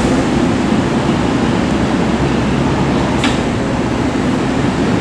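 Seibu 6000-series electric train standing at the platform with its doors open, its air conditioning and onboard machinery giving a steady hum. A brief hiss sounds about three seconds in.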